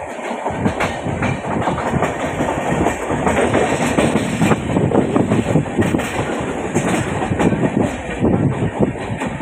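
A train running on the track: a steady rumble, with rapid clattering of the wheels over the rail joints.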